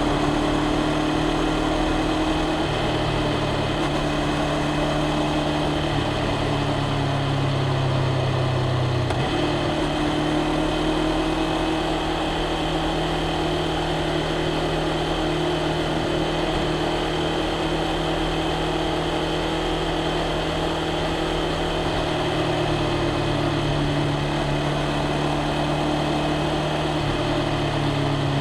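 2024 Honda CBR500R's parallel-twin engine and exhaust running at a steady, low engine speed, its pitch holding nearly level with a small shift about nine seconds in.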